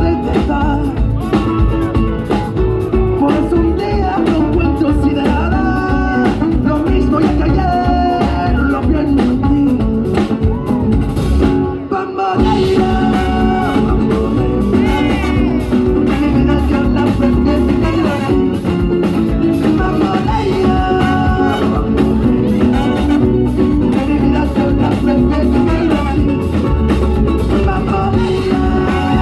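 Live Latin band playing a flamenco rumba with Spanish guitar and a steady beat, with some singing. The music drops out briefly about twelve seconds in, then comes back in.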